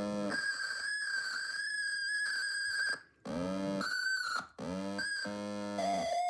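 Snap Circuits optical theremin: an electronic oscillator whose pitch follows the light falling on its photoresistor, giving buzzy tones that glide and jump between a low hum and a high whine. It cuts out abruptly a couple of times and starts again.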